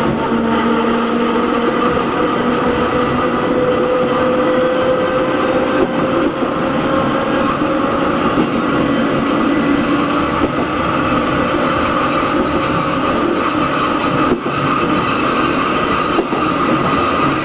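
Hakone Tozan Railway Moha 1 electric car No. 106 running, with the whine of its nose-suspended SE121-A traction motors and gears rising slowly in pitch over the first half as the car gathers speed. The whine sits over steady wheel and rail noise with some clatter.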